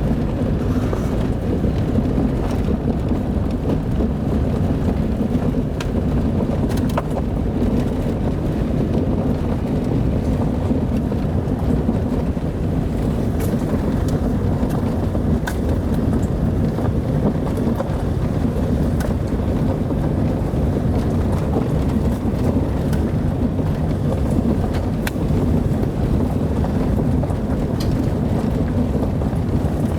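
Car driving along a dirt road: a steady low rumble of engine and tyres, with a few faint clicks scattered through it.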